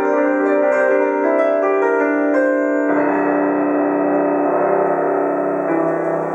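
Alto saxophone and piano playing live classical music: long held saxophone notes over piano chords, with a new, fuller sustained note and chord coming in about three seconds in.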